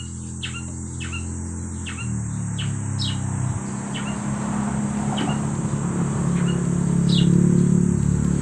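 A bird chirping again and again: short, high, falling chirps every half second to a second. Under it are a constant high insect drone and a steady low hum that grows louder toward the end.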